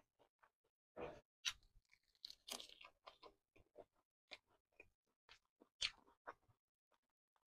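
Chewing and crunching a mouthful of spicy fried chicken: a run of short, crisp crunches, loudest in clusters about one to three seconds in and again near six seconds.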